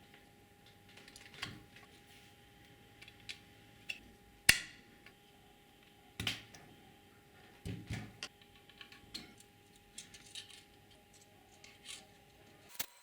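Scattered clicks, taps and light knocks of small parts being handled and fitted on a workbench, over a faint steady hum. One sharp click with a short ringing tail stands out about four and a half seconds in, and the sound cuts off just before the end.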